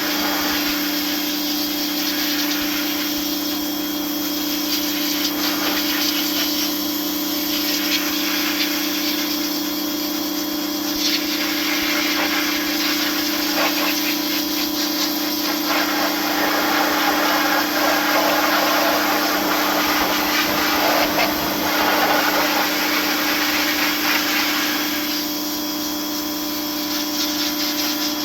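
A motor-driven machine running steadily: a constant hum with a rushing hiss over it that swells and eases a few times.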